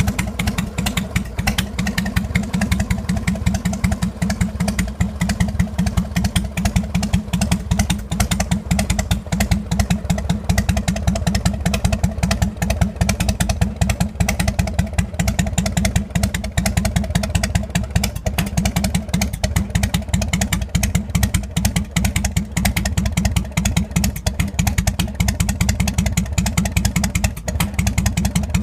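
Harley-Davidson Dyna Wide Glide's air-cooled V-twin running steadily at idle through a stainless-steel aftermarket exhaust, with a fast, even run of exhaust pulses.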